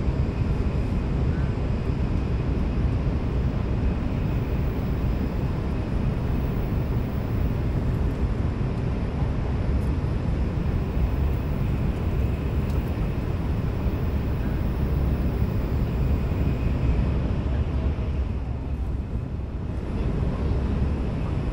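Inside the cabin of an N700S Shinkansen running at speed: a steady low rumble of wheels and air with a hiss above it and faint steady high tones. The hiss thins and the level dips slightly about eighteen seconds in, then returns.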